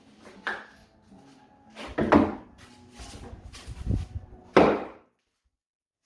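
Irregular knocks and scrapes of hand tools during grouting work on stone walls, with two louder thuds, before the sound cuts off suddenly.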